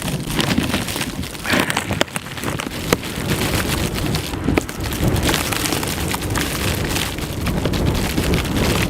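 Blizzard wind buffeting the microphone: a steady rushing noise with a heavy low rumble, broken by a few sharp clicks.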